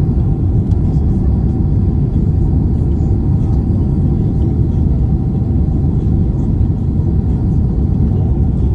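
Boeing 767 airliner cabin noise on approach: a steady, loud low rumble of engines and airflow heard inside the cabin, with a faint steady hum above it.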